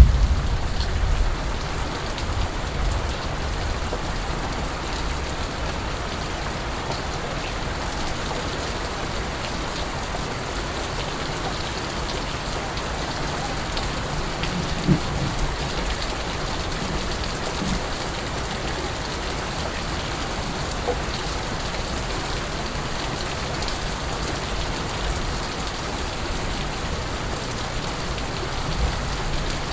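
Steady rain falling on surfaces, an even hiss with dripping water. There is a low rumble near the start and a short dull thump about halfway through.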